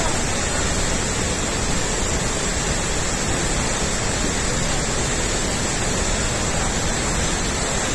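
Steady roar of a large waterfall, water crashing down without a break.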